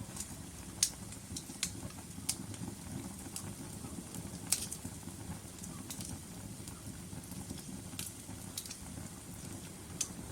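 Wood logs burning in a fireplace: a steady low rumble broken by irregular sharp pops and snaps, about a dozen of them, the loudest just under a second in and again about halfway through.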